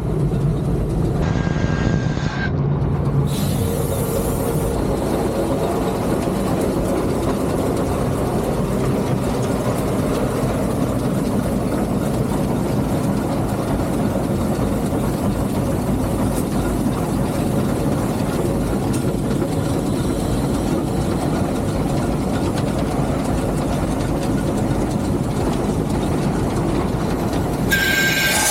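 Three-truck Shay geared steam locomotive running, heard from inside its cab as a steady rumble.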